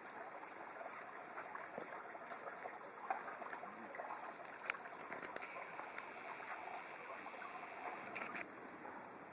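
Steady rushing of a flowing stream, with two sharp clicks about three and about four and a half seconds in.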